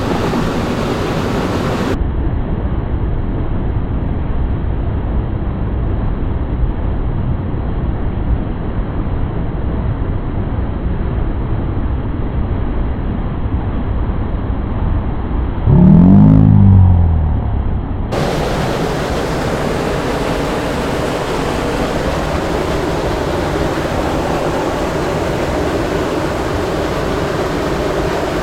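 Steady rushing of creek water, muffled with the high end cut off for much of the middle. About halfway through, a louder low sound with gliding pitch lasts about two seconds.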